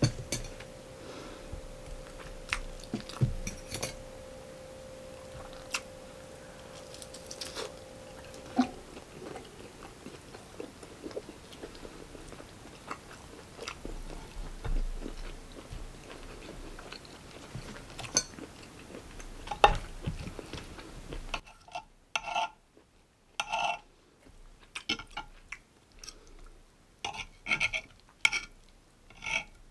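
Close-miked chewing and mouth sounds of eating steak and rice, with scattered short clicks. Near the end, knife and fork clink and scrape against the cast-iron sizzling plate while cutting the steak.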